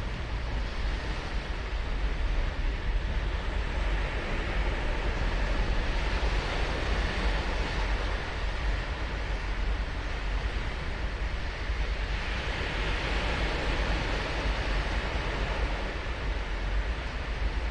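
Ocean surf breaking and washing up the beach, a steady hiss that swells a third of the way in and again about three quarters through.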